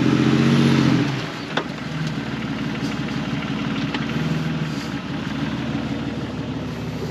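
Jeep Grand Cherokee WJ's 4.0 straight-six engine running under throttle for about a second, then dropping back to a lower, steady run. A couple of light knocks come through it.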